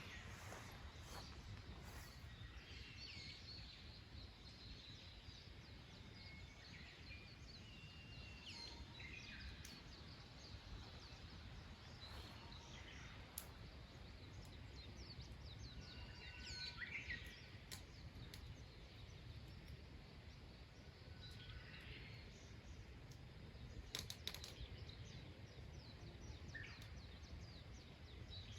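Faint birds chirping here and there over a low steady rumble, with a few sharp clicks.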